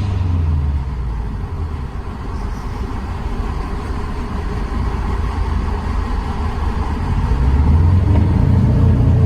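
Exhaust rumble of a Subaru WRX STI's turbocharged flat-four, fitted with an ETS exhaust and an Invidia downpipe. It drops back about a second in, then builds gradually louder toward the end.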